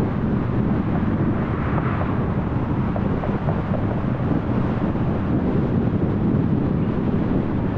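A car being driven at road speed: steady tyre and road noise with a low engine and drivetrain rumble, and a little wind noise.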